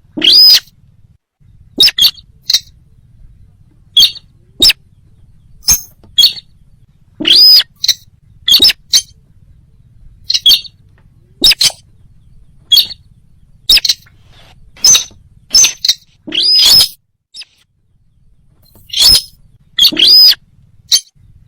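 Sintar bird lure call: loud, sharp, high-pitched calls repeated about once a second. Some are longer notes that rise and fall.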